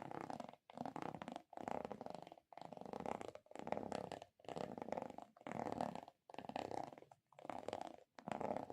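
Soft ASMR trigger strokes repeated in an even rhythm, about ten in eight seconds, each a rubbing sound lasting most of a second and cut off by a short silence.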